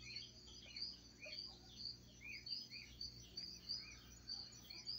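Faint birds chirping: short rising-and-falling calls, about two a second, over a steadier run of higher, quicker notes.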